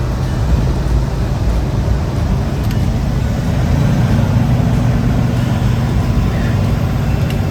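Semi-truck on the move: a steady low engine drone mixed with road noise.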